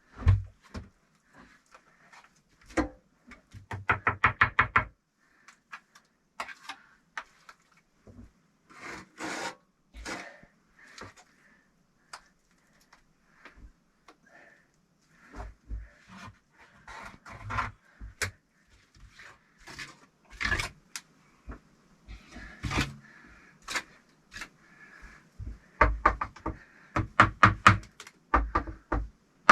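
Bricks being laid in clay mortar: scraping of clay and knocks as bricks are set, with two runs of quick tapping, a few seconds in and again near the end.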